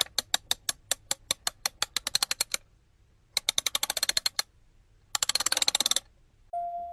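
Rapid clicking of keys being typed, in three runs. The first starts with separate strokes and speeds up over about two and a half seconds; the next two are shorter and denser. Just before the end a single held bell-like note begins.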